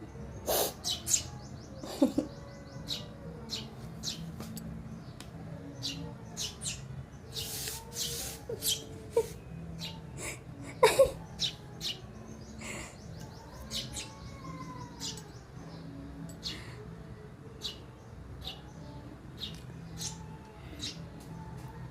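Sparrows chirping: many short, high chirps in quick succession, with a few louder ones about half a second in, two seconds in and near the middle.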